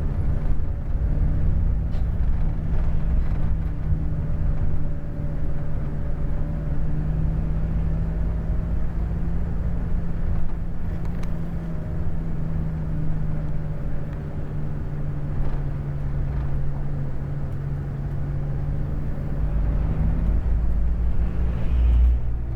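Scania K410 bus engine running steadily under way, a continuous low drone with road rumble that grows a little louder near the end.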